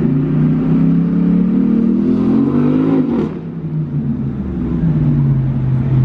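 Car engine under acceleration: its pitch climbs, drops sharply about three seconds in, as at a gear change, then runs steady at a lower pitch.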